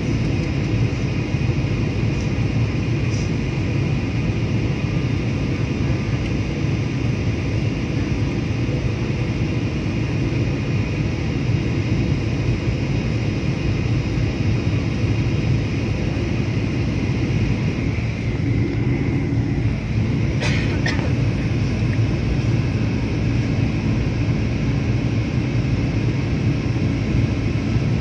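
Steady engine and air noise inside an aircraft cabin in flight, with a brief click about twenty seconds in.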